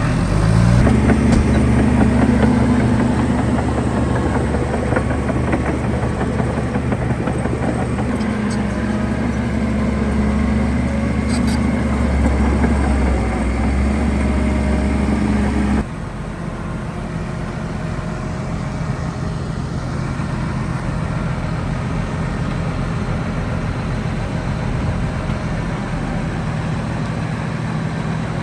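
Heavy diesel engine of earthmoving machinery running at a steady pitch. About sixteen seconds in, the sound drops abruptly to a quieter, different engine note.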